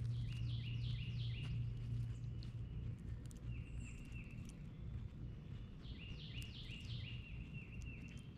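A songbird singing three phrases of rapidly repeated down-slurred whistled notes, over a steady low hum.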